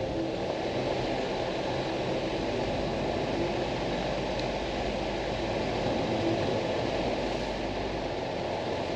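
Steady rumble and hiss of a Jeep Wrangler heard from inside the cabin, even throughout with no distinct events.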